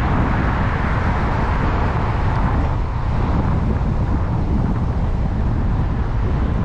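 Car driving along: steady road and tyre rumble with wind noise on the dash-cam microphone. A louder hiss builds in the first couple of seconds and fades by about the halfway point.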